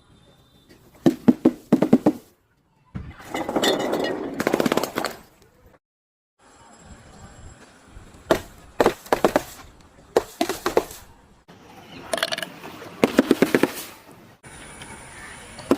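Objects being crushed and broken, heard as bursts of rapid cracking and crunching in several short clips joined by abrupt cuts.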